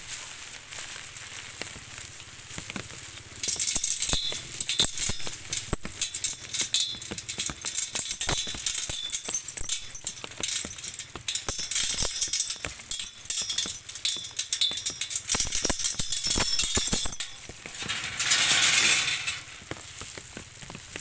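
Heavy rain falling: a dense rattle of drops that grows much louder about three seconds in, with a short hissing swell near the end before it eases.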